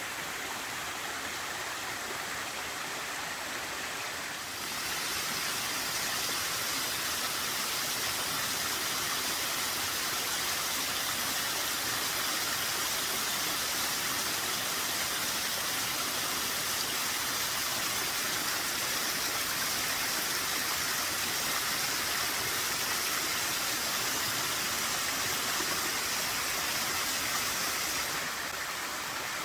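Small waterfall with a light flow of water, its steady rush of falling and splashing water filling the air. The rush grows louder and brighter about four seconds in and falls back to its earlier level near the end.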